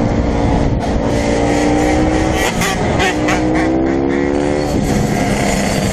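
Dirt bike engine running under way, its pitch climbing as it accelerates from about three seconds in, then dropping back near the end.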